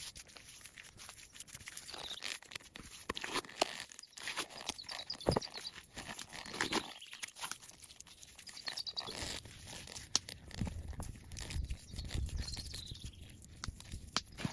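Irregular crunching, crackling and tearing of plant material, such as branches and leaves being handled and broken, in many small clicks and snaps.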